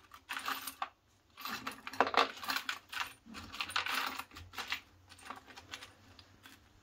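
Small metal parts such as screws clinking and rattling against a hard surface as they are handled, a quick, irregular run of light clicks and jingles that is busiest in the middle and thins out near the end.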